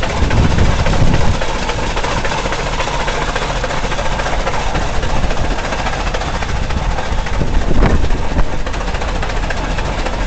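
Steam traction engine running, a continuous noisy hiss and rumble with two louder low swells, one just after the start and another around eight seconds in.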